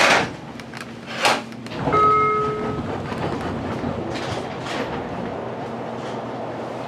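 Train standing at a station platform: two sharp clunks a little over a second apart, then a single short beep about two seconds in, then the steady hum of the train's running equipment.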